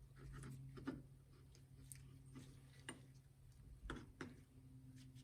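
Near silence with a few faint, light clicks of small carburetor parts being handled as the float and its hinge pin are fitted back in place, over a low steady hum.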